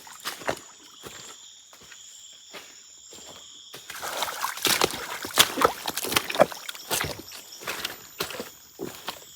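Irregular rustling, crackling and knocks of handling or stepping through forest litter, densest between about 4 and 7 seconds in, over a steady high drone of rainforest insects that stops a little under 4 seconds in and comes back near the end.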